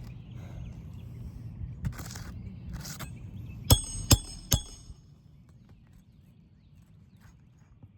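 Three quick hammer strikes on metal, about half a second apart, each with a brief bright ring: a roofing nail being driven under a shingle with a roof snake. Softer scuffing and handling of the tool and shingles come before the strikes.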